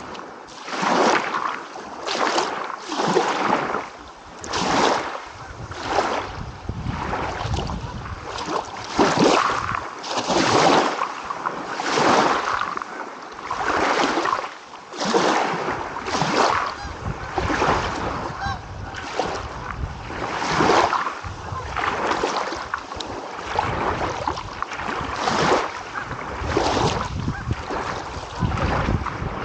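Small waves washing in and out against the shore in quick succession, a surge about every second or so.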